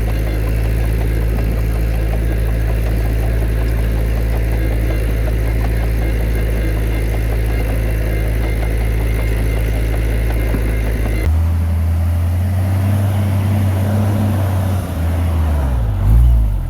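Heavy diesel engine of earthmoving machinery running with a steady low drone. About eleven seconds in the sound switches abruptly to a different engine note, which rises and falls in pitch near the end.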